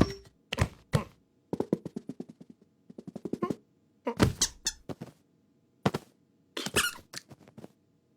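Cartoon sound effects: a string of short squeaks, knocks and thuds. About one and a half seconds in comes a quick run of clicks lasting about two seconds, and a louder cluster of hits follows around four seconds and again near seven.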